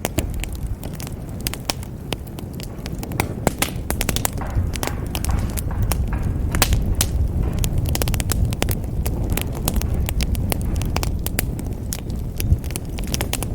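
Wood fire crackling in a fireplace: many sharp pops and snaps at an irregular pace over a steady low rumble of the burning fire, with one louder pop near the end.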